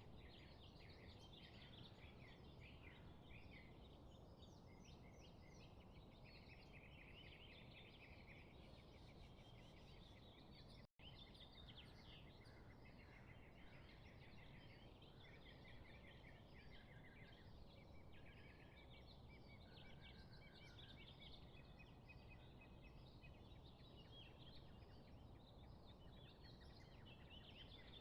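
Faint chorus of many small birds chirping and trilling over a steady low hiss. The sound cuts out for an instant about eleven seconds in.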